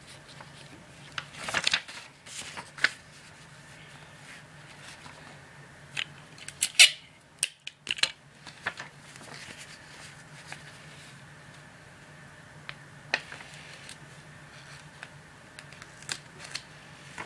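Paper being handled and folded by hand: scattered rustles and short crisp scrapes, the loudest a cluster about six to seven seconds in.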